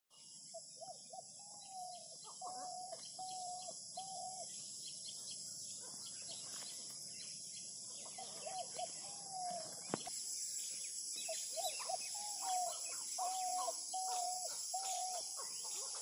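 Birds calling: one bird repeats short, level whistled notes in runs of four or five, in three bouts, among scattered faint chirps from other birds. A single sharp click about ten seconds in.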